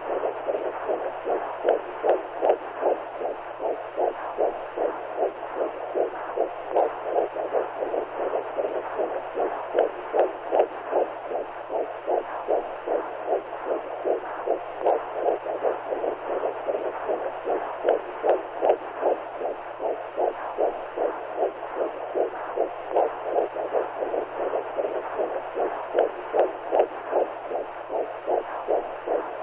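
Womb sound for soothing newborns: a steady whooshing noise with a regular heartbeat-like pulse a little faster than once a second, over a low steady hum.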